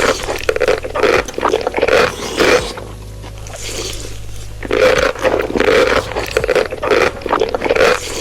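Close ASMR-style eating sounds: bursts of crunching and chewing in quick clusters, with a pause of about two seconds near the middle.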